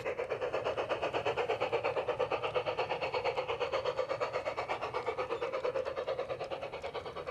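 Battery-powered G-scale model train running along garden track, with a fast, even rhythmic beat of about nine or ten pulses a second.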